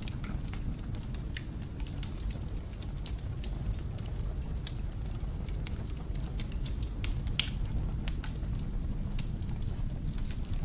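Wood fire crackling in a fireplace, with irregular sharp pops and one louder snap about seven seconds in, over a steady low rumble of blizzard wind.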